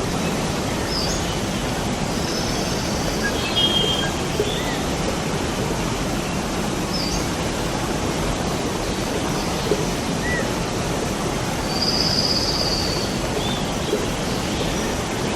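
Waterfall rushing steadily, with a few short, high bird chirps over it: several in the first four seconds, one near seven seconds, and a longer phrase of song about twelve seconds in.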